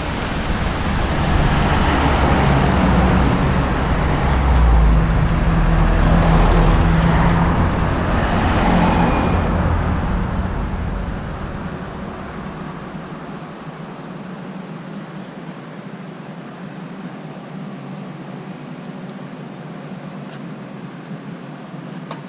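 A motor vehicle passing on the road: engine and tyre noise that builds over the first few seconds, is loudest around five to seven seconds in, then fades away by about twelve seconds, leaving a quieter steady background.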